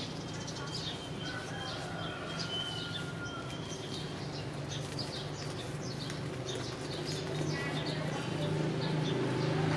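Small birds chirping repeatedly in quick, high calls, over a steady low hum that grows louder near the end.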